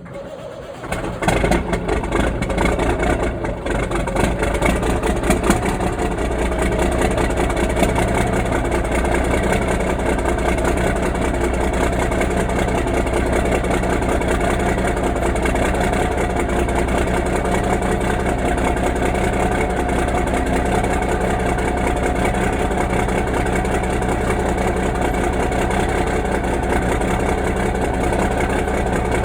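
1988 Kenworth cabover's Cummins 444 inline-six diesel cold-starting through short exhaust stacks: it catches right at the start, runs rough and uneven with flares for the first few seconds, then settles into a steady, barking idle.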